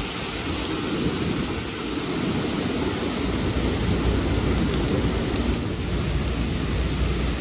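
Hurricane wind and rain: a steady, loud rush of noise with a deep low rumble.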